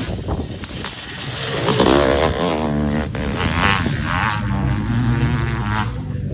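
Honda CR500 single-cylinder two-stroke motocross engine revving hard, its pitch climbing and dropping several times as the throttle is opened and closed.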